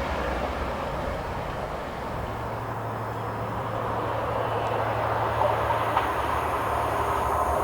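Diesel-locomotive-hauled passenger train running on the line with a steady rumble. A low, steady engine hum sets in about two seconds in, and the sound grows louder near the end as the train comes closer.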